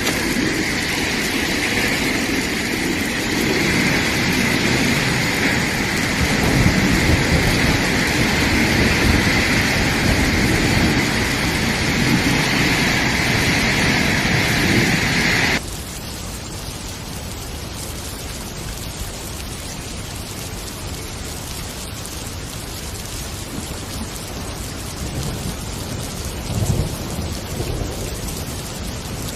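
Heavy tropical downpour: a loud, steady rush of rain with a low rumble under it. About halfway through it cuts off abruptly to a quieter, steady rain noise.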